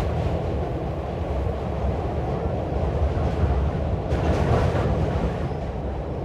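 Passenger train running over a steel girder bridge, heard from an open coach window: a steady low rumble of the wheels with rushing air, and a brief louder rush about four seconds in.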